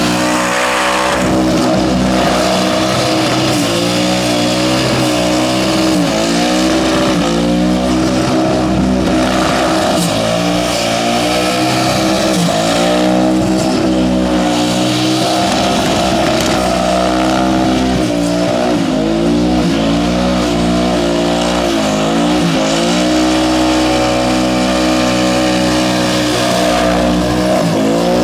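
Twin-turbo burnout car's engine held at high revs during a burnout, the revs dipping and climbing again every few seconds, over the noise of spinning, squealing tyres.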